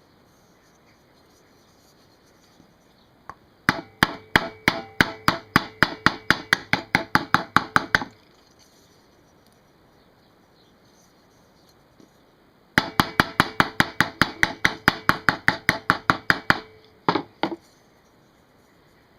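A small hammer tapping quickly on the Seagull outboard's brass fuel tank to work out a dent: two runs of about twenty ringing metallic taps, some four or five a second, and two last taps near the end.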